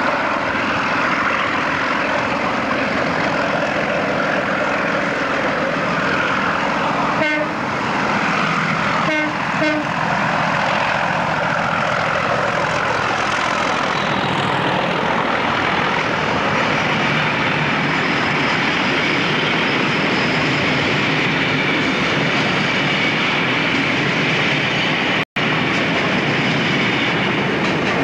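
A diesel-hauled freight train of tank wagons running through a station close by, with a steady rumble and clatter of wheels on the rails. There are a few brief horn toots around 7 and 9 seconds in.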